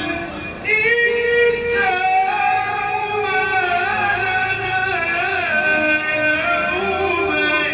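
A man reciting the Quran in a melodic, chanted style, holding long notes that waver and turn. There is a brief pause for breath just after the start.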